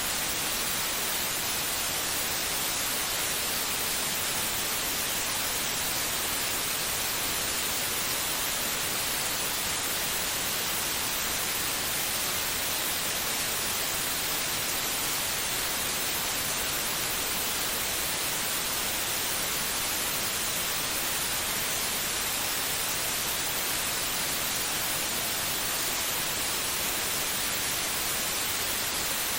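Steady white noise: an even, unbroken hiss that never changes, used as a sleep aid to calm a baby.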